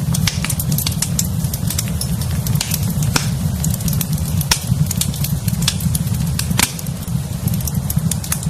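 Wood fire burning in a fireplace: a steady low rumble with frequent sharp crackles and pops at irregular intervals, one of the louder pops coming a little past the middle.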